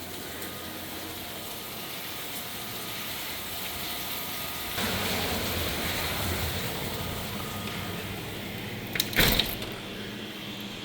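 Heavy rain falling in a steady hiss that swells about five seconds in, with a couple of sharp knocks and a clatter near the end.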